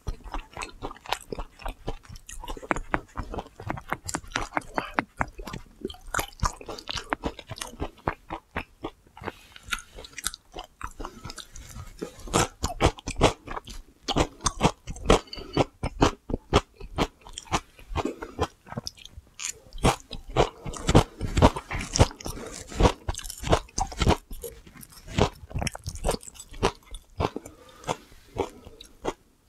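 Close-miked chewing and crunching of pan-fried oyster and chive pancake and crisp homemade pickles: a dense run of crunchy clicks that gets louder from about 12 seconds in.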